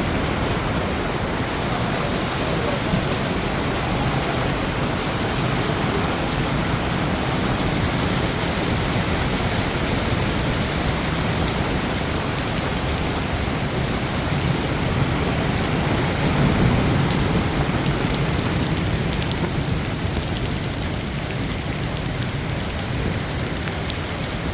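Heavy rain pouring down steadily, swelling slightly about two-thirds of the way through.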